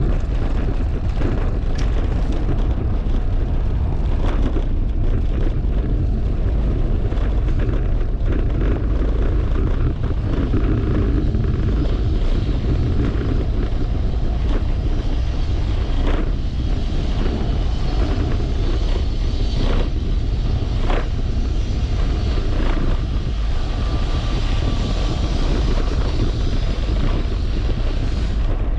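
Wind buffeting an action camera's microphone while a fixed-gear bicycle is ridden: a steady low rumble with tyre and road noise, broken now and then by short knocks from bumps.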